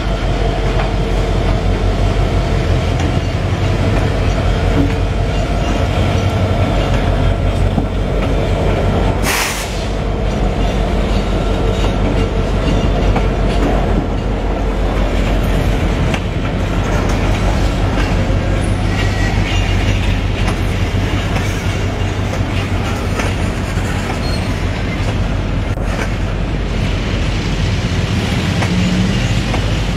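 Train running on the rails: a loud, steady rumble, with a short burst of noise about nine seconds in.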